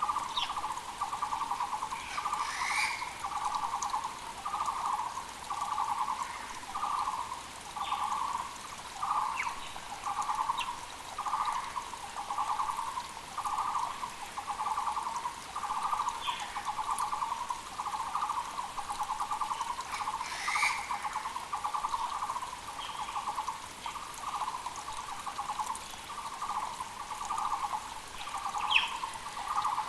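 Taiwan barbet (Muller's barbet) calling steadily: a low, hollow, trilled note repeated a little more than once a second. Other birds call briefly higher up, over the faint rush of a mountain creek.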